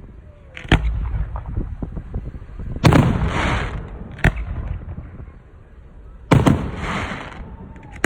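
Aerial fireworks shells bursting: about four sharp bangs at uneven intervals, the two loudest each followed by about a second of hissing noise.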